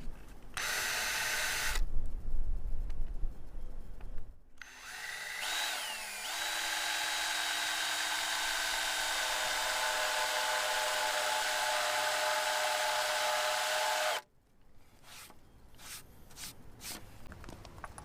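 Power drill countersinking a recess into hardwood: a short burst about half a second in, then it spins up again with a rising whine and runs steadily for about ten seconds before stopping suddenly. A few light clicks follow.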